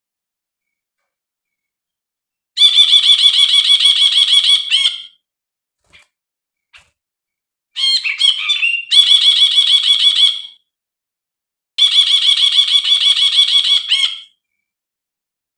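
Brinji bulbul singing: three bursts of fast, evenly repeated chattering notes, each lasting about two and a half seconds with short silent gaps between, the second burst opening with a more varied, warbling phrase.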